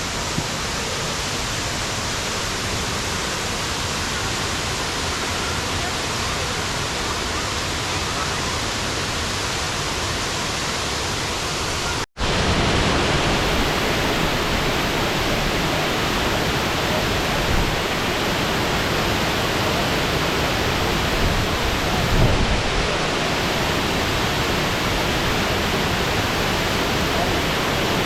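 High Falls, a large waterfall, pouring in a loud, steady rush of falling water. It drops out for an instant about twelve seconds in and comes back slightly louder.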